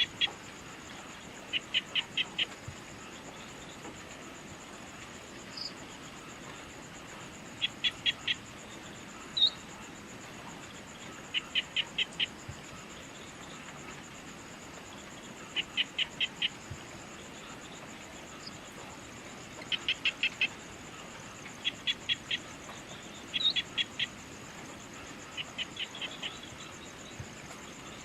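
Evening nature ambience: a steady high insect trill, with a small animal calling in quick series of four or five sharp chirps every few seconds and an occasional single higher chirp.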